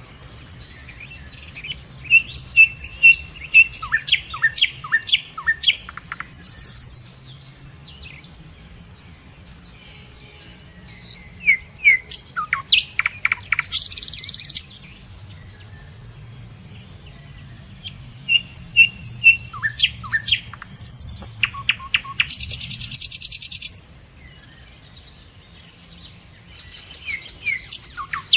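A bird singing the same phrase again and again, about every eight seconds: a run of quick high chirps, several downward-sliding notes, then a harsh buzzy rattle that closes each phrase.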